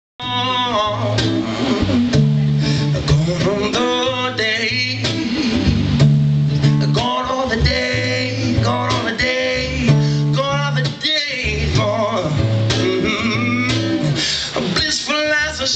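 A song performed live: a strummed acoustic guitar with a singer's voice over it.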